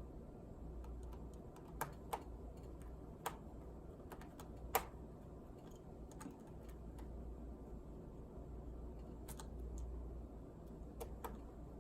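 Scattered light clicks and taps of a small screwdriver and tiny screws on a laptop's plastic case while screws are being worked loose, a few seconds apart, the sharpest about five seconds in.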